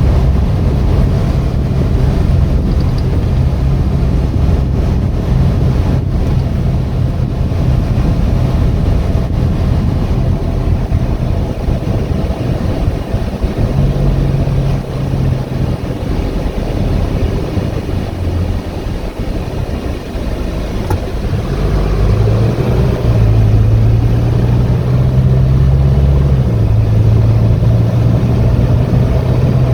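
2018 Hino 155 box truck's four-cylinder diesel engine running under way, with road noise. The engine note eases off around 19 to 21 seconds in, then picks up again as it accelerates.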